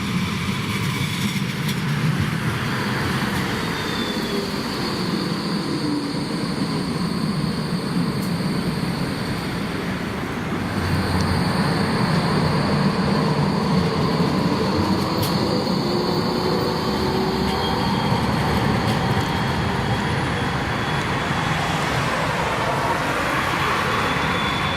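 Electric light-rail tram running through the stop: a steady rumble of wheels and running gear with faint whining tones that slide in pitch, growing louder about eleven seconds in.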